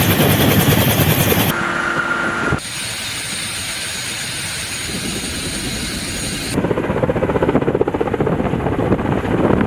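Combat helicopter noise: rotor chop and turbine whine, in several segments that change abruptly, one in the middle carrying a steady high whine over a hiss.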